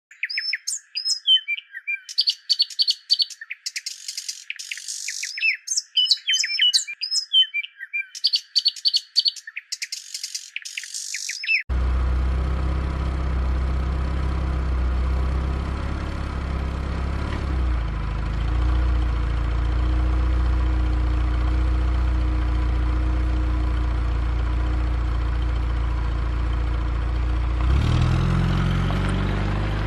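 Birds chirping in quick, busy phrases, cut off abruptly about twelve seconds in by a heavy engine running with a steady low rumble. Near the end the engine's pitch rises.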